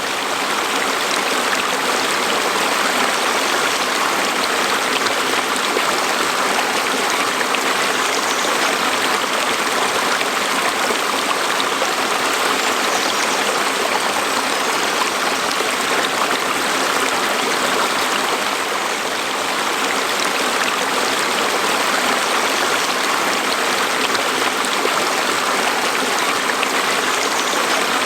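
Natural stream flowing: a steady, even rush of water with no breaks.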